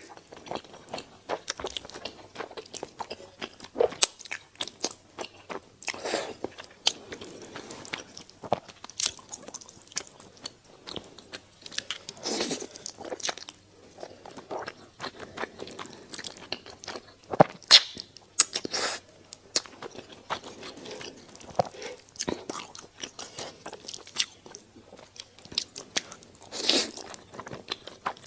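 Close-miked eating: a person biting, chewing and crunching food, with many sharp mouth clicks and several longer noisy bursts of about a second each.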